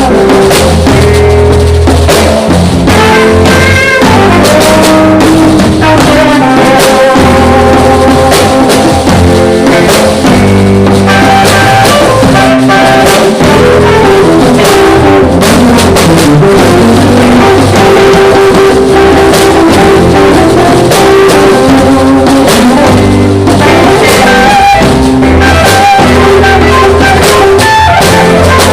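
Live band jamming loudly on drum kit and guitar, a steady groove with no pauses. The recording is overloaded, pinned near full scale.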